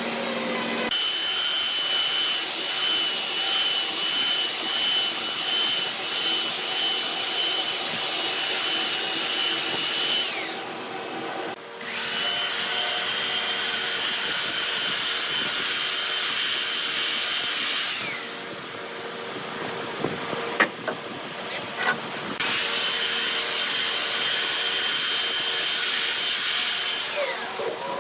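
Handheld electric power tool working wood, with a high steady whine. It runs in three spells, and each one dies away with a falling whine as the tool spins down. A few light knocks come in the pause between the second and third spells.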